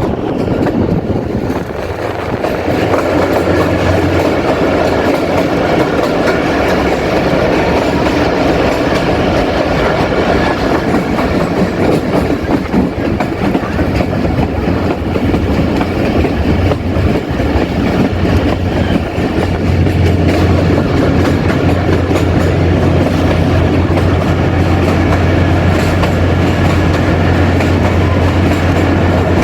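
Passenger train running along the track, heard from on board, with its wheels on the rails and a steady low hum that grows stronger about two-thirds of the way through.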